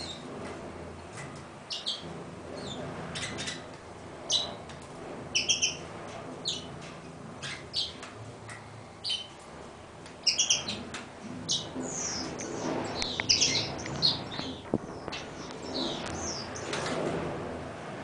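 A small bird chirping in short, high notes, scattered at first, then coming quicker and in clusters from about ten to fourteen seconds in.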